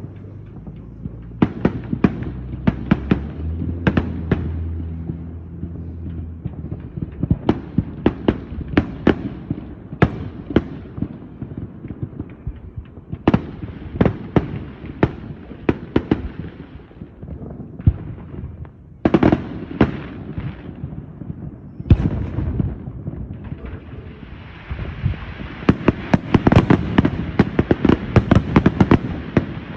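Fireworks display: aerial shells bursting in a string of sharp, irregular bangs, turning into a dense, rapid crackling barrage over the last five or six seconds.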